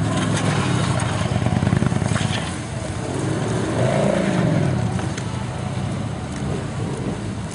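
Police motorcycle engines revving up and down repeatedly as they are throttled through tight low-speed manoeuvres.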